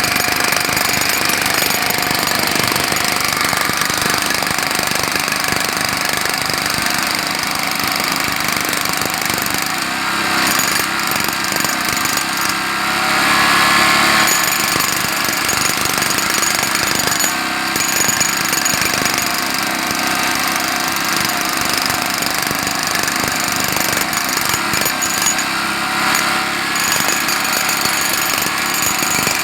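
Jackhammer running continuously, a dense rapid hammering that gets louder for a moment about halfway through.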